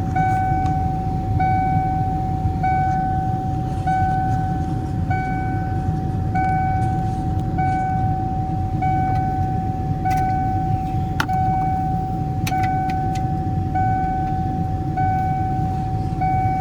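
Ford Ranger's dashboard warning chime, one tone repeating about every second and a quarter, over the low rumble of the idling engine and heater blower. A few sharp clicks come about two-thirds of the way through.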